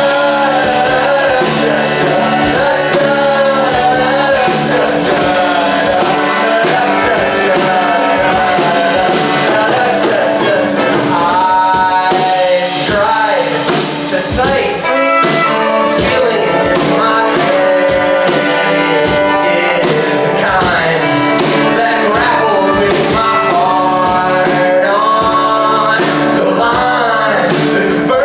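A band playing a rock song with a singer.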